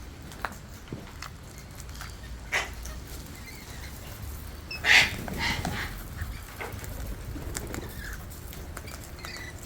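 Wild birds: a short, loud squawk about five seconds in, a fainter call about two and a half seconds in, and scattered small clicks and ticks between them.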